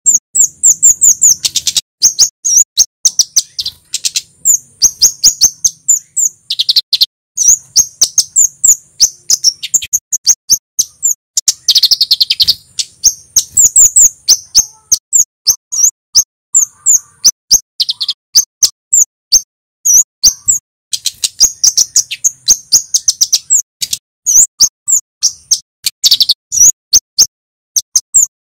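Male kemade, a Javan flowerpecker, singing: rapid runs of sharp, high 'cit' chirps in bursts with short breaks, a lure and tutor call for training caught birds to sing.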